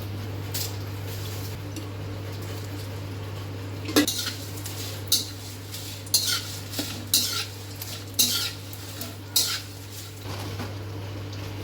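A metal spoon or spatula scraping and knocking around a metal pan while stirring spices, about seven strokes roughly a second apart, starting about a third of the way in. A steady low hum runs underneath.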